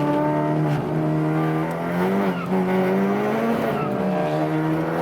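Race car engine running on track at steady revs, its pitch climbing for a couple of seconds and then falling back about three and a half seconds in before holding steady again.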